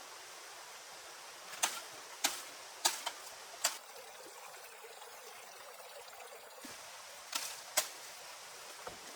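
Steady water hiss, typical of rain in a forest, with about seven sharp knocks or snaps: a cluster of five in the first few seconds and two more near the end.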